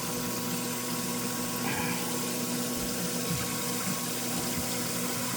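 Small electric live-well aerator pump running steadily, primed and moving water: a steady hum with water rushing through it.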